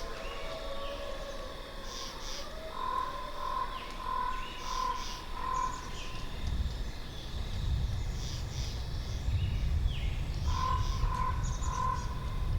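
Birds calling in a forest: a repeated series of evenly spaced whistled notes, heard twice, among scattered higher chirps. Wind gusts in low from about halfway through.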